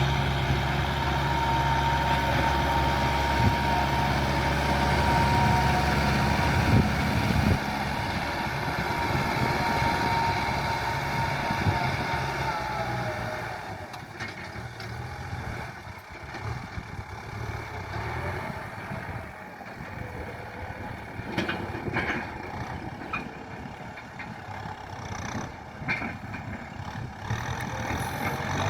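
Diesel farm tractor engine running steadily with a whine. About halfway through, the whine stops and the engine becomes quieter, with a few sharp knocks near the end.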